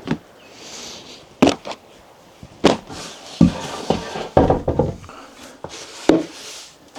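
Several sharp knocks and thuds at irregular intervals, with a busier stretch of clattering in the middle.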